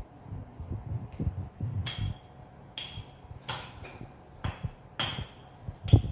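Rolling pin rolling out thin pancake dough on a board: low rumbling thuds with about five sharper knocks, the loudest thud near the end.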